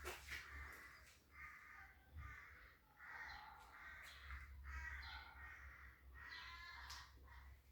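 Faint, harsh bird caws repeated about six times, over a steady low hum.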